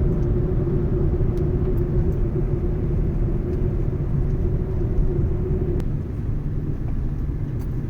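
Car driving along a road: a steady low rumble of engine and tyres, with a droning hum that drops away about six seconds in.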